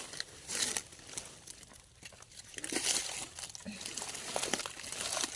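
Dry leaf litter rustling and crackling in irregular bursts, as someone moves through or handles it on the forest floor.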